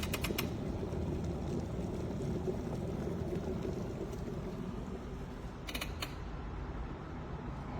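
Glass electric kettle heating water: a steady low rushing noise, with a couple of faint clicks about six seconds in.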